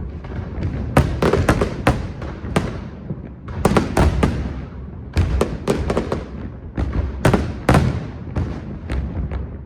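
Fireworks bursting overhead: many sharp bangs in irregular volleys, several a second at the busiest moments, over a continuous low rumble of distant explosions.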